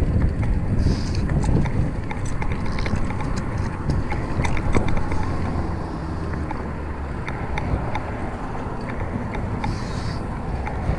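Wind buffeting the microphone and road rumble while riding a fixed-gear bike, with scattered light clicks and rattles.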